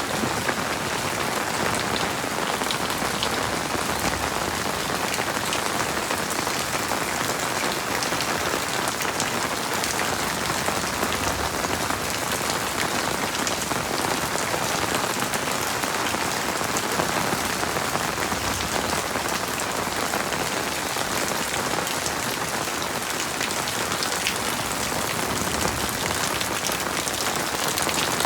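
Heavy rain falling steadily, an even wash of noise with fine drop ticks, no thunder.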